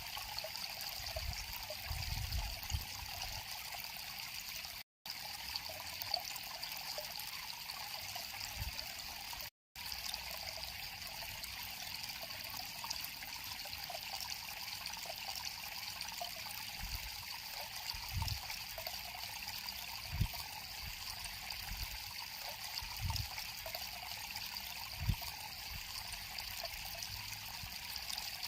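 River water flowing and trickling, a steady rushing hiss with a few soft low thumps. The sound cuts out completely for an instant about five and ten seconds in.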